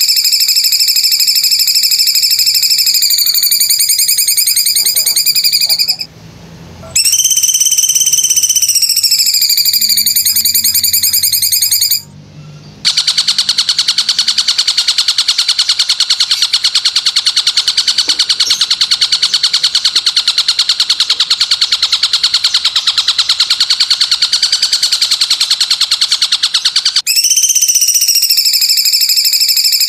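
Recorded masteran track of fast, high, pulsing trills from an animal caller, with two short breaks about six and twelve seconds in. A denser, steadier trill follows the second break and runs until the first pattern returns with an abrupt switch near the end.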